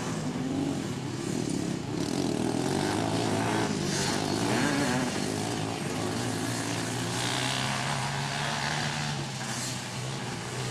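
Off-road racing engines of three-wheelers and quads on a motocross track, revving up and down as they race, several machines mixed together with the pitch rising and falling throughout.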